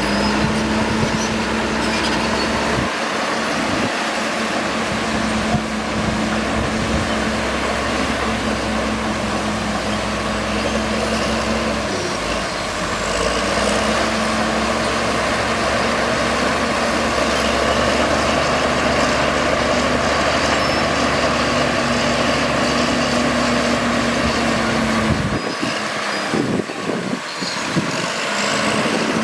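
Heavy diesel engine of earthmoving machinery running steadily under load. The tone dips briefly about twelve seconds in, and near the end the deep rumble thins out and turns uneven.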